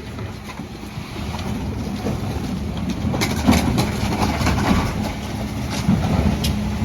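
Mercedes Econic refuse truck running, its engine giving a steady low rumble with a held hum. Several sharp clanks sound over it, the clearest about three seconds in and again near the end.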